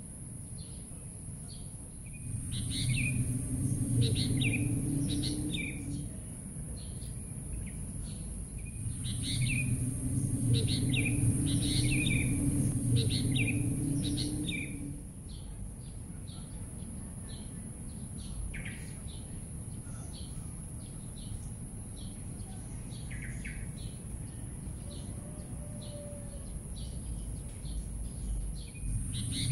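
Small birds chirping, with short high calls repeating every second or so over a steady high hiss. A low rumble swells up twice, each time for a few seconds: about two seconds in and again around nine seconds in.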